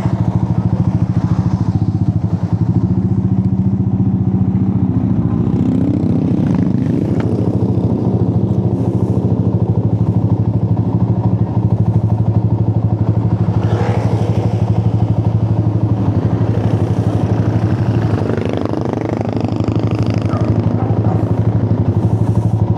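Honda Giorno scooter engine idling steadily at a standstill, its pitch holding almost level throughout.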